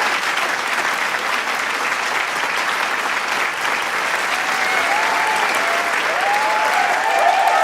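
Large crowd applauding in a dense, steady clatter of clapping, with voices starting to cheer and whoop over it about five seconds in.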